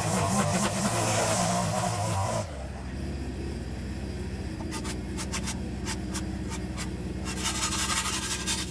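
Background music that cuts off abruptly about two and a half seconds in, giving way to a steady engine hum with bursts of scraping and crackling over it.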